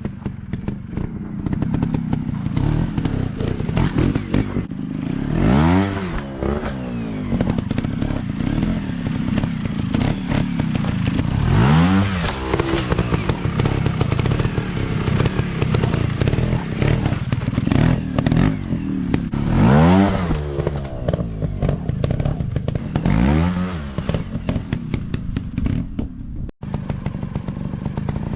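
Small dirt-bike engine running off-road, its revs climbing in surges several times as the throttle is opened, with clattering and thuds from the bike over rough ground.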